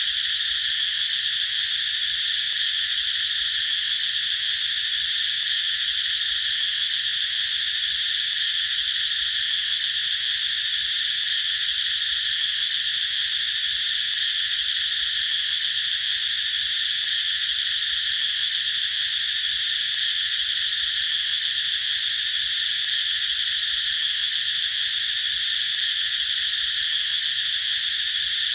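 Cicadas singing: a steady, unbroken high-pitched buzz that holds at one level.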